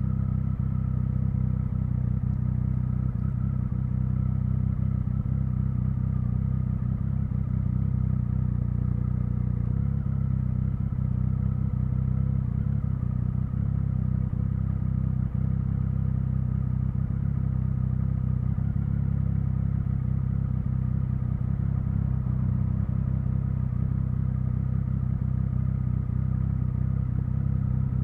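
Triumph Speed Triple 1050's inline three-cylinder engine running at a steady, unchanging engine speed, without revving. The sound is a deep, low note.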